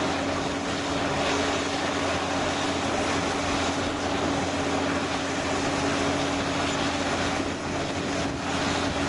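Large crawler bulldozers' diesel engines running steadily under load as they push soil, a constant drone with a steady hum.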